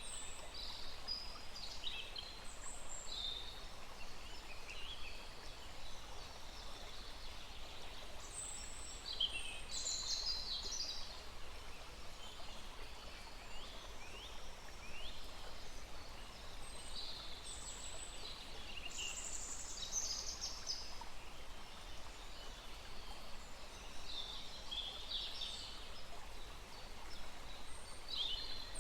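Several small birds chirping and singing in scattered high-pitched calls and trills, coming in clusters, over a faint steady rush of a small stream.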